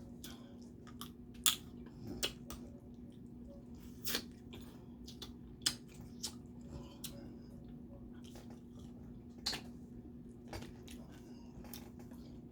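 Shellfish being cracked open and eaten close to the microphone: irregular sharp cracks and snaps of crab and crawfish shell, with wet chewing and smacking in between. A faint steady hum runs underneath.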